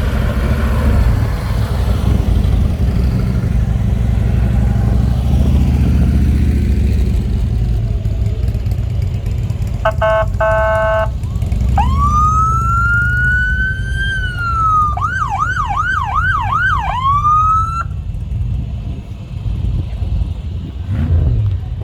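Low rumble of passing vehicle engines, then an electronic emergency-vehicle siren. About ten seconds in it gives a short burst of rapid blips, then a wail that rises and falls, then a fast yelp of about five quick cycles, and it cuts off about 18 seconds in.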